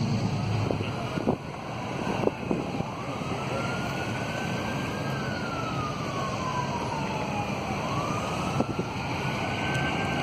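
Emergency vehicle siren in a slow wail, rising and falling in pitch, over a steady low rumble, with a few sharp knocks.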